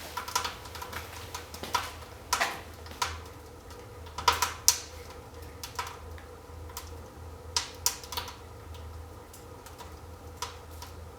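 Wood fire crackling in the Supra Univers II fireplace firebox: irregular sharp pops and clicks, a few louder snaps about two seconds in and again around four to five seconds in.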